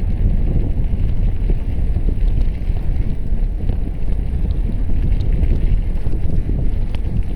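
Steady, loud wind rumble on the microphone of a camera riding on a moving bicycle, mixed with rolling tyre noise and a few faint ticks.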